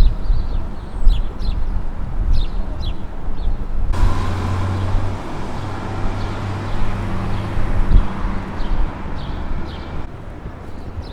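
City street ambience: small birds chirping over a low traffic rumble. About four seconds in, a sudden rush of noise with a steady low engine hum sets in, as of a large vehicle close by, and lasts about six seconds before dropping away.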